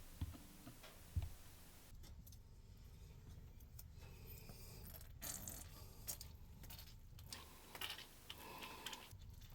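Quiet handling noises: two light knocks within the first second and a half, then scattered faint clicks and rustles.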